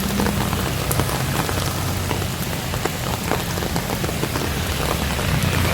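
Heavy rain falling steadily, full of sharp individual drop ticks, over a low steady hum.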